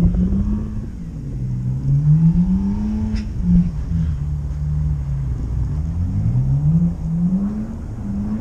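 A car engine revving up and down, its pitch rising and falling several times, with a single sharp click about three seconds in.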